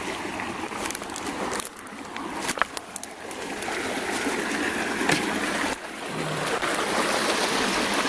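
Creek water running and trickling over rocks, a steady rush with a couple of sharp clicks or splashes.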